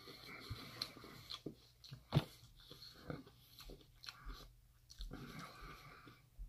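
Faint close-up chewing of a mouthful of tofu and vegetable curry, soft wet mouth sounds with scattered small clicks, one sharper click about two seconds in.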